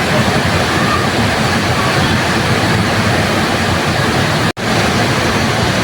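Waterfall, a steady loud rush of falling water. It cuts out for a split second about three-quarters of the way through, then returns.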